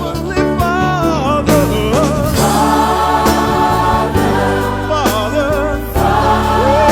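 Gospel worship song: sung vocal lines with vibrato and runs over steady held bass notes, with choir-like voices.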